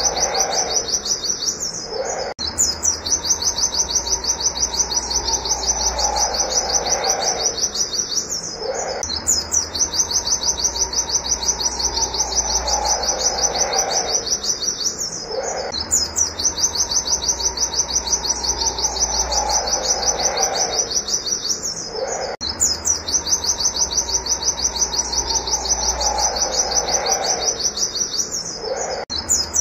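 Pleci (white-eye, Zosterops) singing its rapid, high-pitched 'wit wit' chatter in an unbroken stream of notes. A lower falling tone recurs every few seconds, and the whole pattern repeats about every six and a half seconds, like a looped recording.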